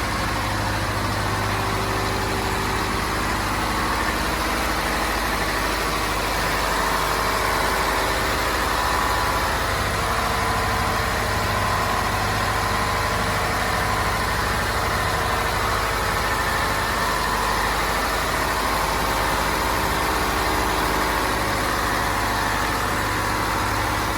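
Scania DSI 11 marine diesel, an 11-litre turbocharged straight-six, running steadily at a constant speed with a continuous hum.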